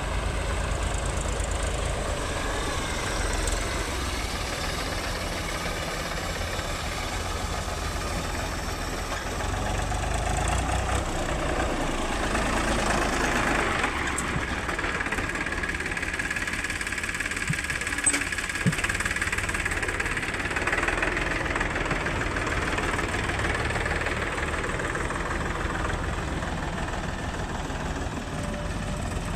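Diesel engine of heavy loading machinery running steadily, swelling and easing in pitch as it works, with a couple of sharp knocks about two-thirds of the way through.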